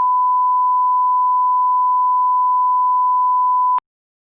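Steady electronic bleep tone, a single pure pitch near 1 kHz, held loud and unchanging, then cut off abruptly near the end.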